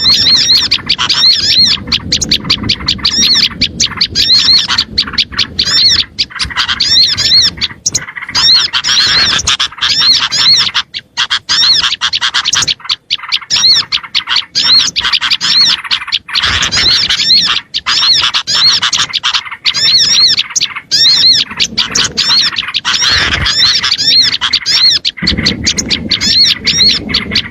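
Small birds giving agitated calls, played as a bird-lure recording: loud, continuous, rapidly repeated high chirps, several a second with no real pause.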